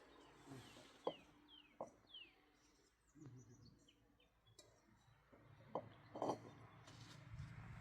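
Faint bird chirps, three quick falling notes about a second and a half to two seconds in, over quiet surroundings, with a few sharp light knocks scattered through and a low hum coming up near the end.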